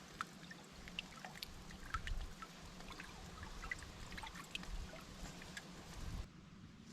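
Water dripping and trickling with many small, irregular splashes and ticks; the sound cuts off abruptly about six seconds in.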